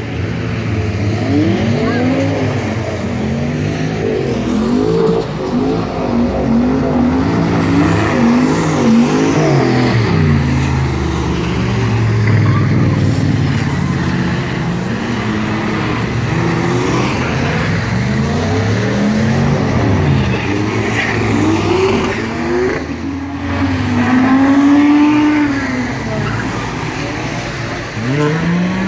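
Drift cars' engines revving hard, pitch sweeping up and down again and again as the cars slide around a wet track, with more than one engine heard at once.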